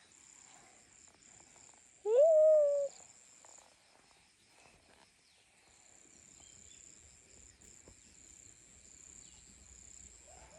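Insects, crickets or cicadas, chirring steadily at a high pitch, with a single loud, drawn-out call about two seconds in that rises and then holds for under a second.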